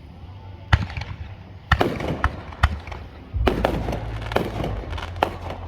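Aerial fireworks bursting: a string of about eight sharp bangs at irregular intervals, several close together, with a deep rumble underneath from about halfway.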